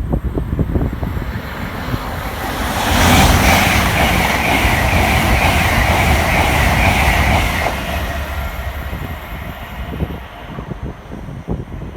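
Train running through a railway station: a loud rush of wheel and rail noise swells about three seconds in and dies away after about five seconds, over a low rumble.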